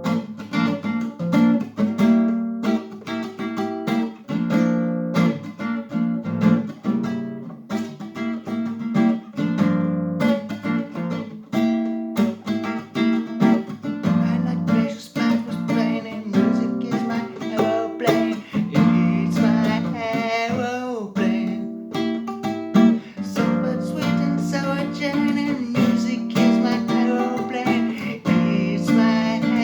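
Solo acoustic guitar playing a rhythmic, repeating riff of plucked and strummed notes. A couple of notes bend downward, once about two-thirds of the way through and again at the end.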